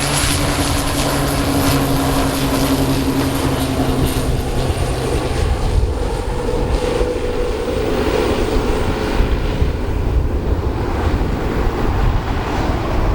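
Turboprop airplane engines and propellers running with a steady drone and a deep rumble, a held hum that fades out about a third of the way in and another tone that rises near the middle. Wind buffets the microphone.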